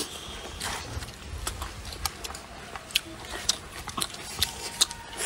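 Chewing and mouth sounds of someone eating close to the microphone, with irregular sharp clicks scattered throughout.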